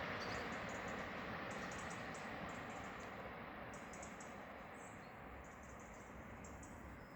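Rumble of a pair of Class 387 electric trains fading steadily as they run away down the line, with small birds chirping in short high bursts.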